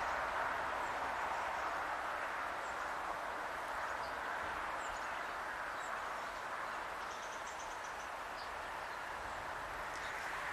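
Passenger train running away into the distance, its wheel-on-rail noise fading slowly, with small birds chirping faintly now and then.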